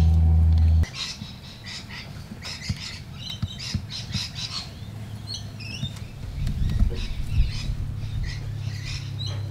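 Birds chirping and squawking. A loud, low steady drone cuts off abruptly just under a second in, and a low hum with a few knocks comes in past the halfway point.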